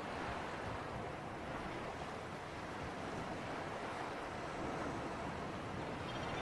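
Steady wash of sea surf and breeze, a continuous even rush with no distinct wave breaks.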